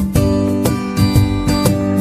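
Music with a strummed acoustic guitar, its chords struck in a steady rhythm of about two strokes a second.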